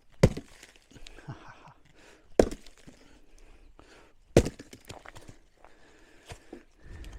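Three hard chopping blows into dry eucalyptus logs being split for firewood, about two seconds apart, with smaller knocks of wood between them.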